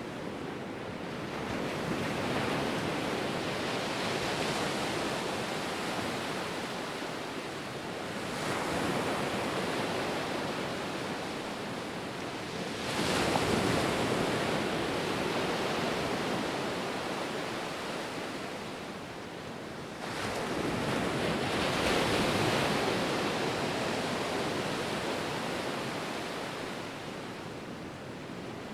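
Ocean waves breaking and washing up on shore, the surf swelling and fading in repeated surges every few seconds, two of them stronger than the rest.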